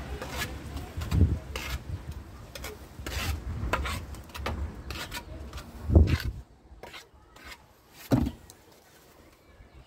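Hand masonry work: irregular scraping and knocking, with three dull thumps spread through it.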